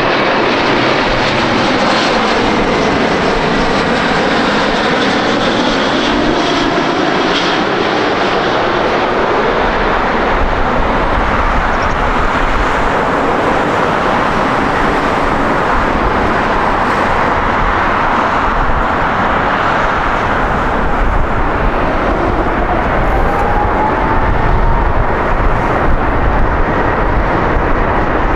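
Jet airliner passing close by on the runway, its engines making a loud, steady noise with whining tones that slowly glide down in pitch and later rise again.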